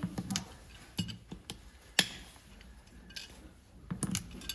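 Farrier's tools tapping and knocking on metal: a few scattered light taps and one sharp ringing strike about two seconds in.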